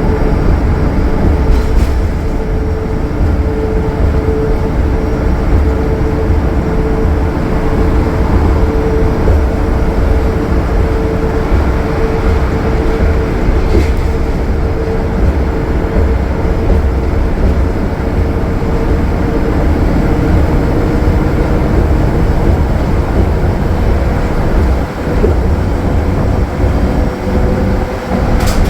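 Transit bus with a Cummins ISL9 diesel engine cruising steadily at highway speed: a heavy low rumble of engine and road noise with a steady whine running through it. There are a few brief rattles, once near the start, once midway and once at the end.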